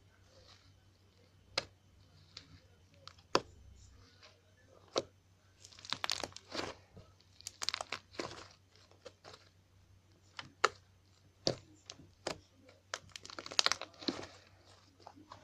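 Fluffy slime being squeezed and stretched by hand, giving off scattered sharp pops and clicks, with two denser runs of crackling partway through and near the end.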